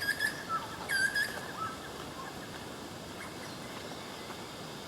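Birds calling: a handful of short chirping calls in the first second and a half, then only a faint steady outdoor background hum.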